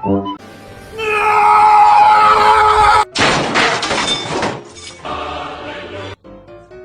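Background music, then a loud crashing, shattering noise.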